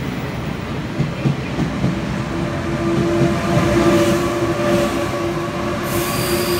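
E1000-series push-pull Tze-Chiang express train pulling out, its wheels knocking over rail joints a few times in the first two seconds. From about two seconds in a steady electric motor whine joins the rumble as the rear power car passes, loudest a couple of seconds later.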